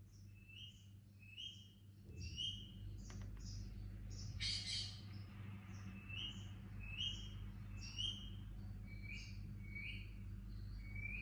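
Baby Indian ringneck parakeet chirping over and over, short rising chirps repeated about every two-thirds of a second, with one louder, harsher rasping call about four and a half seconds in.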